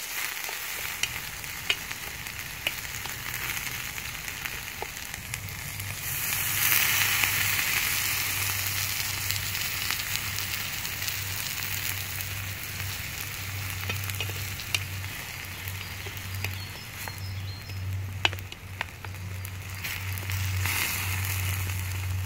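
Chopped onion sizzling in olive oil in a stainless steel frying pan: a steady frying hiss that grows louder about six seconds in, with scattered small clicks and pops.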